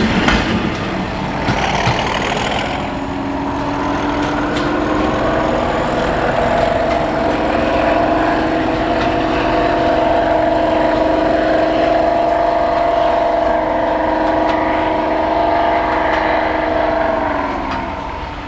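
Diesel locomotive engine working under power with a steady droning note, over wheel-on-rail noise at the start; near the end the note drops in pitch and fades.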